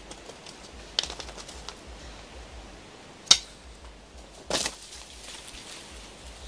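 Wooden sticks clicking and knocking together in a quick run, then one sharp crack of wood a little after three seconds, the loudest sound, and a brief crunch of dry leaves and twigs about a second later. It is a failed attempt to make fire by rubbing sticks together.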